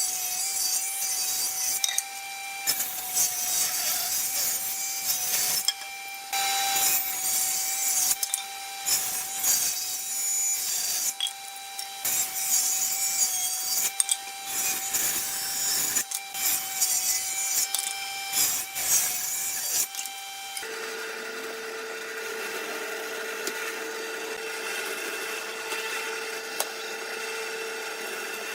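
Wood being sawn or rubbed in quick, irregular strokes over a faint steady tone. About two-thirds of the way through, this gives way abruptly to a steady, even hum.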